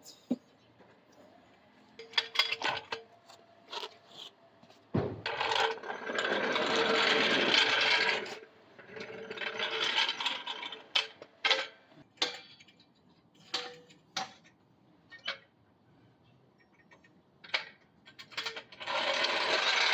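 Wheel refitting and lug-nut work: scattered metal clinks and knocks, with a few longer runs of a tool working the lug nuts, each lasting one to three seconds.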